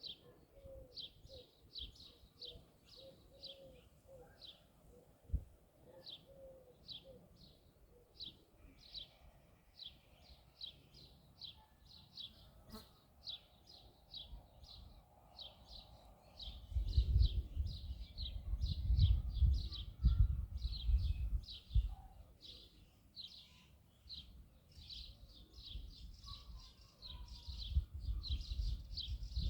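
A bird chirping over and over in short high notes, a few chirps a second without a break. Bursts of low rumble come in around the middle and again near the end.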